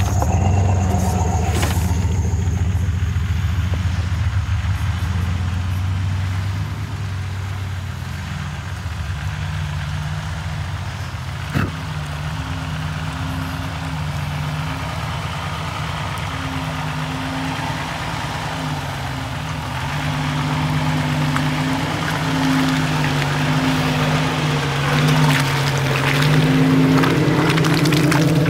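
Off-road Jeep engines running on a snowy trail: a low steady hum from a Jeep idling close by at first, then a Jeep's engine rising and falling with the throttle as it drives up through the snow, growing louder near the end. A single sharp click comes just before the midpoint.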